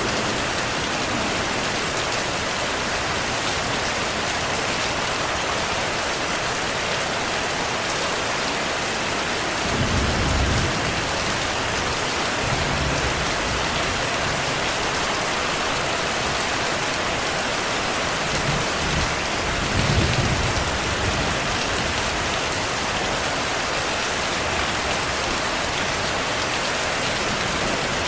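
Steady heavy rainfall hissing on surfaces, with low rolls of distant thunder swelling up about ten seconds in and again near twenty seconds.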